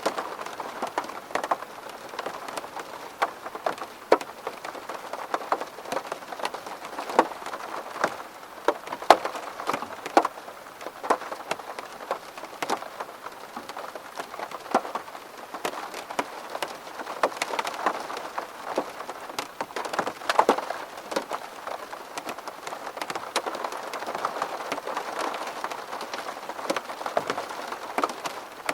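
Steady rain pattering on a window pane, a constant wash with many sharp separate drop taps.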